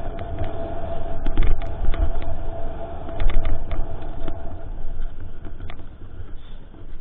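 Mountain bike riding fast over a rough trail, heard on the bike-mounted action camera: heavy wind rumble on the microphone with rattles and clicks from the bike jolting over the ground, and a steady high whine. The whine stops about four and a half seconds in, and the sound then grows quieter as the bike slows.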